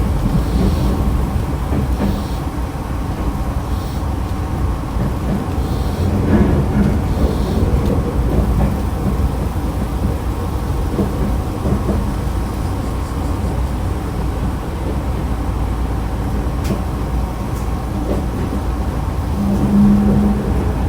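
Running noise heard from inside a Nankai electric train car (set 2036F) travelling between stations: a steady rumble of wheels on rail with a few faint knocks from rail joints.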